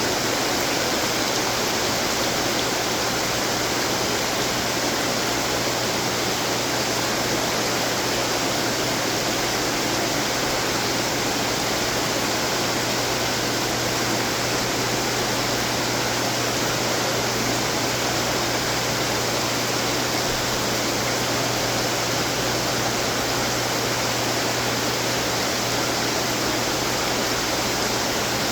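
Water splashing and trickling from many running garden fountains, a steady rushing noise, with a low steady hum underneath.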